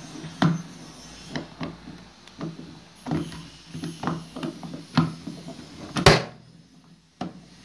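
Espresso machine portafilter being handled and fitted into place: a series of short clicks and knocks, the loudest about six seconds in.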